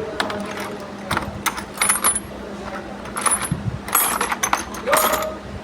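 Metal tools and engine parts clinking against each other: a string of sharp, ringing metallic clinks at irregular intervals, with a faint steady hum underneath.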